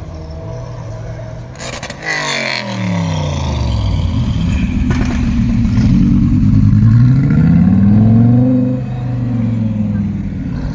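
A car engine: its pitch drops about two seconds in, then climbs steadily for several seconds as it accelerates and falls back near the end.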